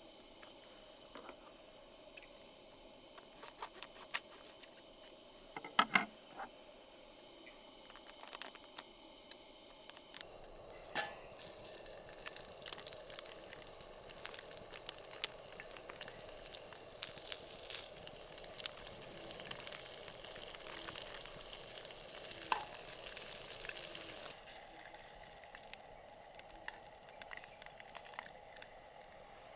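Beef fillet sizzling as it fries on a hot pan. The sizzle starts about ten seconds in, after a few light clinks and knocks of utensils, and eases off a few seconds before the end.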